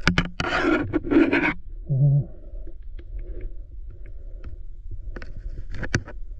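Underwater recording: a steady low rumble, broken by loud scraping and rushing noise in the first second and a half, a short low hum about two seconds in, and a few sharp clicks near the end.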